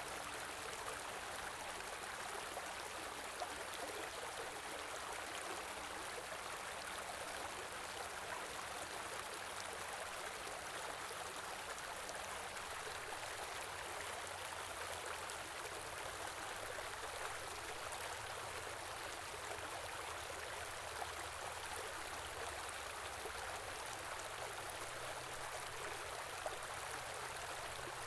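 Small stream running steadily over rocks, a continuous rushing and trickling of flowing water.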